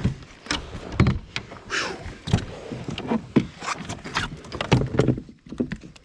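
Irregular knocks and clunks against a fishing kayak as a freshly landed smallmouth bass is handled, with a breathy "whew" about two seconds in.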